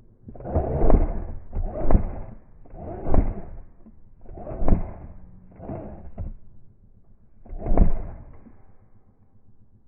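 Airsoft gas rifle firing single shots, six in all, each a sharp crack with a short rattle, at uneven spacing of about a second, the last a little later than the rest.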